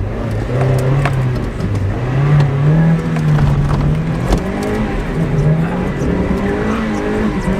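Mazda Miata's four-cylinder engine revving hard during a drift, its note rising and falling several times as the throttle is worked.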